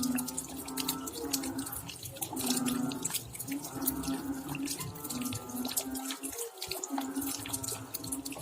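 Rain at night, with drops dripping and pattering as many quick clicks. Under them runs a low pitched tone that comes and goes every second or so.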